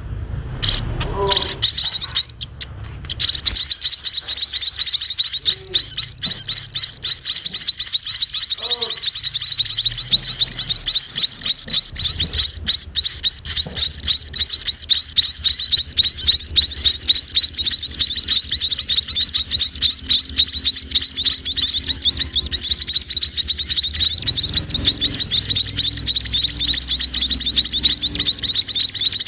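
Sparrow nestlings begging: a shrill, continuous chorus of rapid high chirps that starts about three seconds in, the calls chicks make to be fed by a parent.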